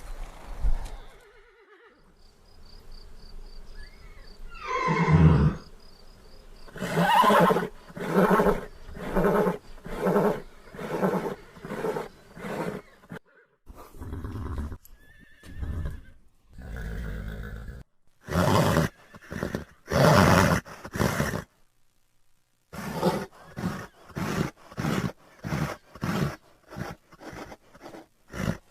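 Horse vocalising: a whinny about five seconds in, then long runs of short, repeated calls, about one a second, coming faster, about two a second, near the end.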